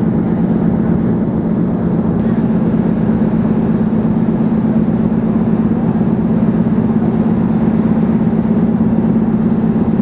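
Steady drone of a cross-Channel ferry under way, a constant low hum from its engines and machinery with an even rushing noise over it.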